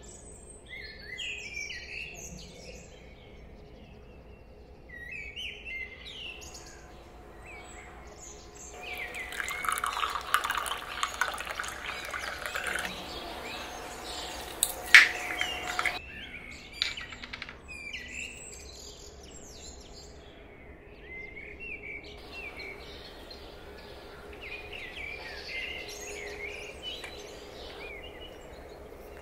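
Small birds chirping in short scattered bursts. Midway, a louder stretch of close handling noise lasts several seconds, with one sharp click near its end.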